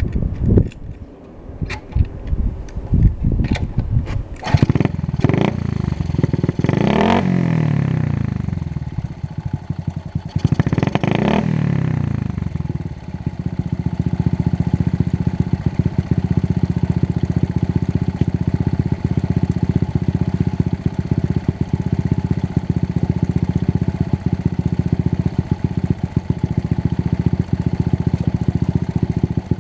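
Honda Monkey/Gorilla minibike's small single-cylinder four-stroke engine and exhaust: it sputters unevenly as it starts, is revved up and down twice, then settles into a steady idle.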